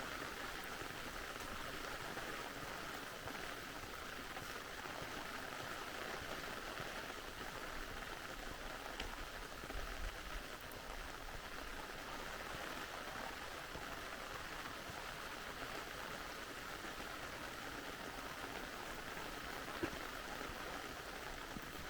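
Steady rain falling with a mountain-valley stream running: an even, unbroken hiss of water.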